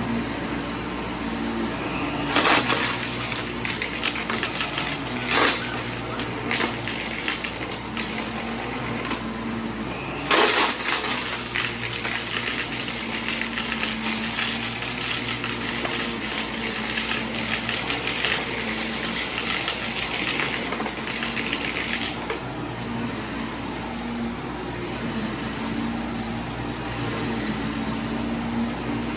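Vacuum cleaner running steadily, with loud crackling and rattling as debris is sucked up through it: short bursts a couple of times, then a long stretch of rattling that stops abruptly after about twenty seconds.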